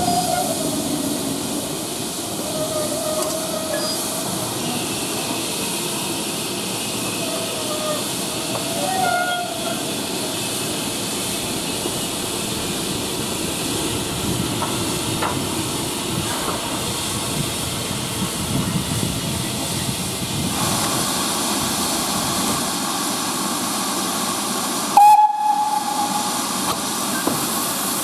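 Steam locomotive standing in a station, hissing steadily with escaping steam; the hiss grows stronger and higher about twenty seconds in. A brief whistle-like tone sounds near the end.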